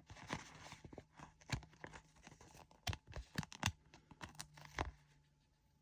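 Crinkling plastic drill packets and short peeling, tearing snaps of sticker labels being handled while kitting up a diamond-painting kit: irregular crackles, louder in a few sharp bursts through the middle.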